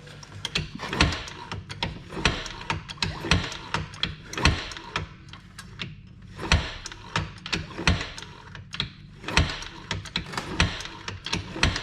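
Can-Am's engine being kicked over on its kick starter with the spark plug out: a run of rattling mechanical clicks and short bursts of hiss, one stroke about every second or two. It is being cranked to check for water blowing out of the plug hole after the machine was submerged.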